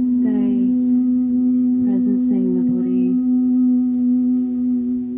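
A singing bowl sounding a steady, sustained low tone with several overtones. A voice hums and slides in pitch over it near the start and again about two to three seconds in.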